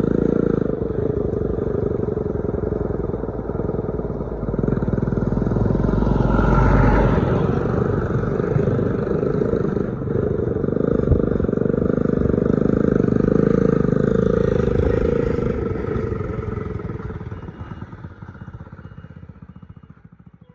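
Engine of a homemade truck running steadily with a rapid pulsing beat, getting louder about six seconds in, then fading out over the last few seconds.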